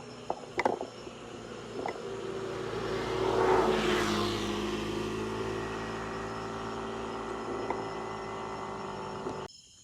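A car passing close by: engine and road noise swell to a peak about three to four seconds in and ease off, leaving a steady engine hum. The sound cuts out abruptly near the end.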